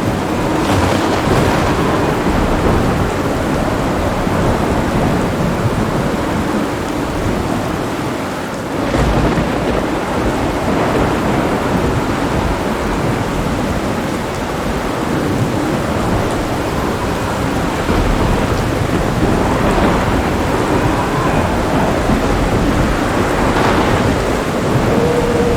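Heavy rain falling steadily under continuous rolling thunder. After a brief lull, a new peal of thunder breaks about nine seconds in.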